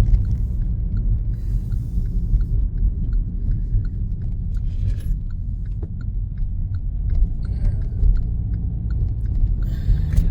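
Car driving on the road, heard from inside the cabin: a steady low rumble of engine and tyre noise, with a faint, regular light ticking over it.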